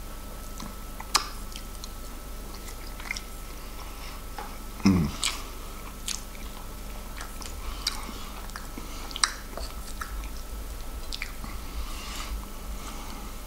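A man chewing a mouthful of corned beef hash and fried egg, with wet mouth smacks and a few sharp clicks scattered through it, as a wooden spoon scrapes and taps the plate.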